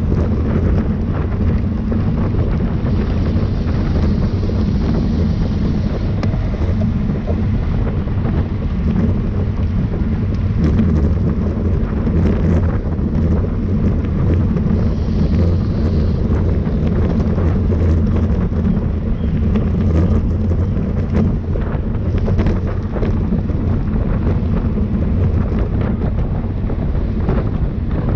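Wind buffeting the microphone of a camera on a moving bicycle: a steady deep rumble that does not let up.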